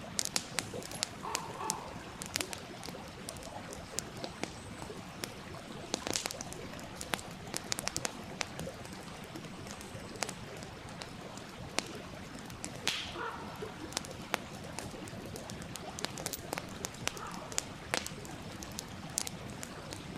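Campfire crackling with frequent sharp pops and snaps over the steady rush of a stream.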